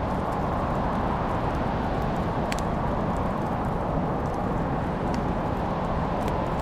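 Wood fire in a fireplace crackling: a steady low rushing noise with scattered sharp pops and ticks, the clearest about two and a half seconds in and near the end.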